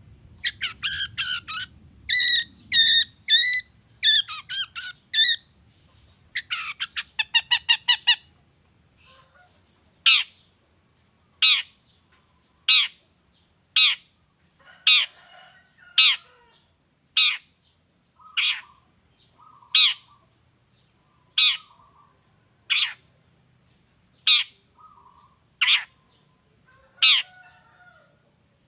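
Long-tailed shrike (cendet) calling: fast chattering phrases for the first several seconds, then a run of harsh, repeated calls about one a second.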